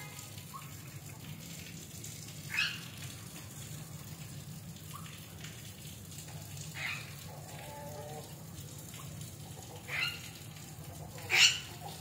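Scattered short, high bird chirps, several of them falling quickly in pitch, with the loudest near the end, over a steady low hum.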